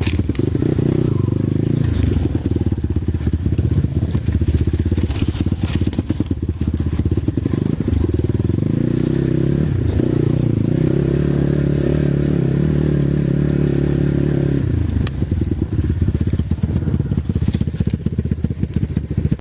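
Enduro dirt bike engine running, its note rising and falling with the throttle; past the middle it holds a steady higher pitch for several seconds, then drops back.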